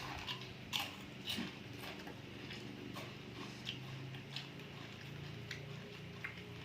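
Close-up eating sounds of someone chewing sea grapes: irregular wet clicks and little pops as the beads burst, over a steady low hum.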